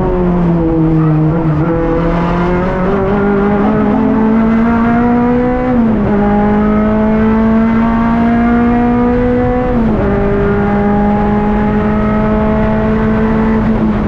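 Honda Civic EP3 race car's engine pulling hard under acceleration, heard from inside the stripped cabin. The engine note climbs steadily and drops sharply twice, about six and ten seconds in, at upshifts, then climbs again.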